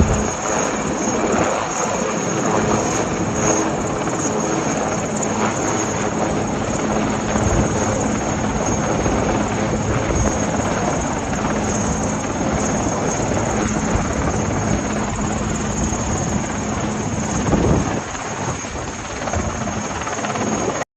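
Military helicopter running at close range: a steady loud noise of rotor and engine with a thin high whine over it.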